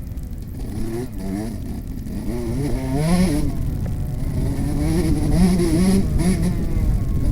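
Two-stroke Yamaha YZ125 motocross bike ridden on a dirt track, its engine revving up and falling back several times as the rider works the throttle and gears, with wind rush on the microphone underneath.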